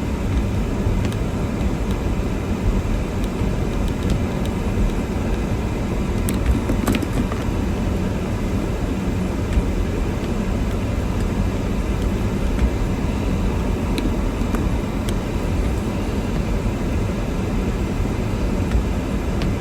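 Steady low rumble of a car driving on snowy roads, with a few faint clicks.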